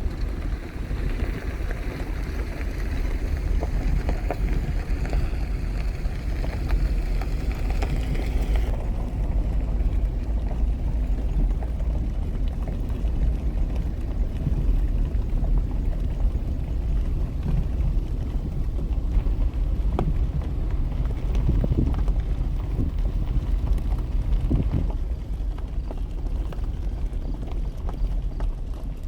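Wind rumbling on the microphone over a steady outdoor rush, with a few light knocks in the second half. A brighter hiss in the rush cuts off suddenly about nine seconds in.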